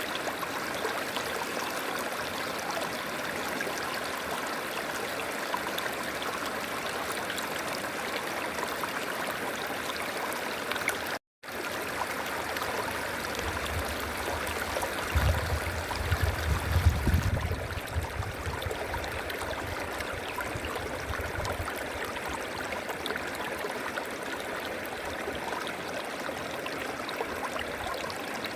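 River water flowing steadily in a continuous rushing wash. The sound cuts out completely for a split second about a third of the way in, and a low rumble rises and fades under the water in the middle.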